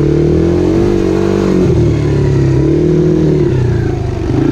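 Dirt bike engine running while being ridden, its pitch rising and falling twice as the throttle is opened and eased.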